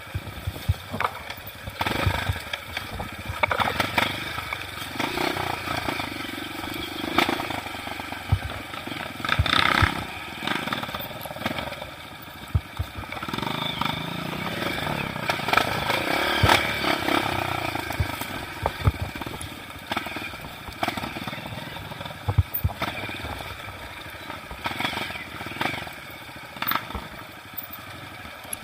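Trail motorcycle engine running and revving up and down on rough dirt ground. Frequent knocks and rattles come from the bike bouncing over rocks.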